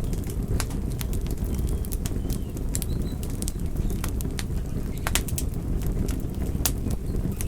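Campfire of burning wood: a steady low rumble of the flames with frequent irregular sharp crackles and pops, a few of them louder, around five seconds in and near the end.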